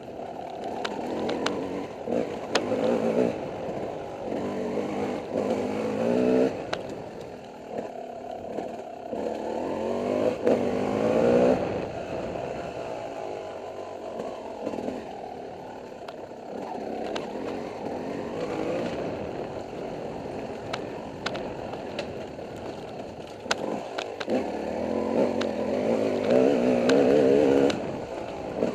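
Dirt bike engine being ridden hard, repeatedly revving up in rising surges and easing off between them, with sharp clicks and rattles from the bike over rough ground.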